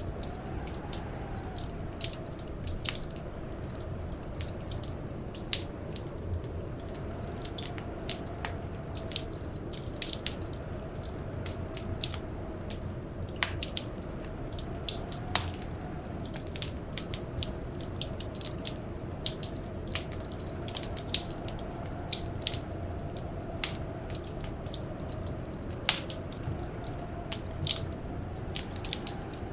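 Wood fire crackling in a fireplace: irregular sharp pops and snaps, several a second, over a steady low rumble. Beneath them runs a faint, gently wavering howl of blizzard wind.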